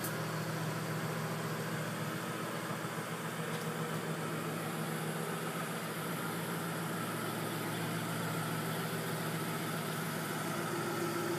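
Hellion-turbocharged 2006 Ford Mustang GT's 4.6-litre V8 idling steadily.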